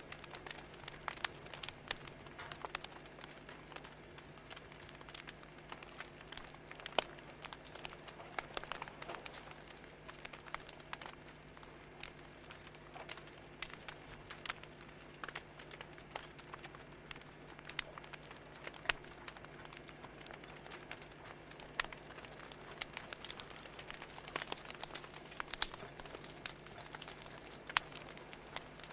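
Wood fire crackling: irregular sharp pops and snaps over a faint steady hum.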